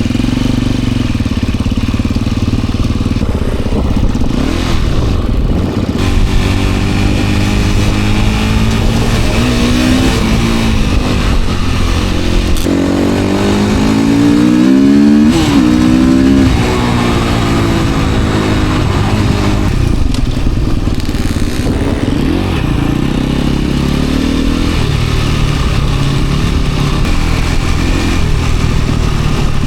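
Dirt bike engine running while being ridden, its revs rising and falling with the throttle; about halfway through it revs up to its loudest, highest pitch and then drops off sharply.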